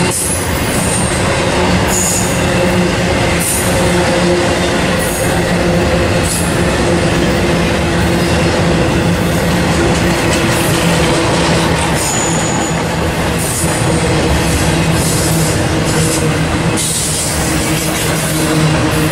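Intermodal freight train of trailer-loaded cars rolling past at speed: a loud, steady roar of wheels on rail, with brief high-pitched squeals a few times.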